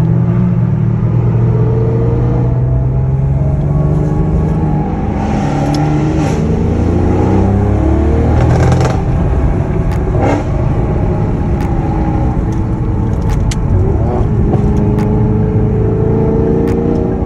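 Car engines accelerating and revving, their pitch climbing and dropping through gear changes, with several engines overlapping at times. Short sharp cracks are heard several times in the second half.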